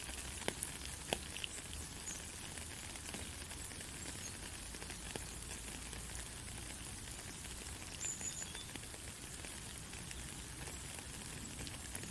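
Steady rain falling, an even hiss with scattered sharper drop ticks, and a faint brief high chirp about eight seconds in.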